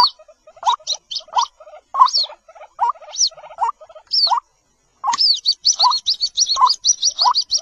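White-breasted waterhen chicks calling: repeated short low cheeps alternate with high, falling squeaks. After a brief silent break just past halfway, the squeaks speed up into a fast run of about five a second.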